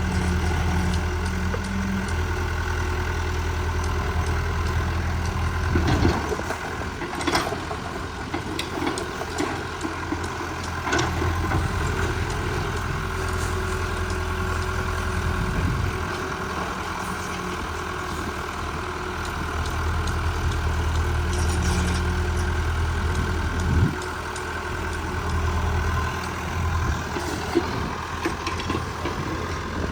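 Heavy excavator engine running steadily, its note changing abruptly a few times, with a few sharp knocks.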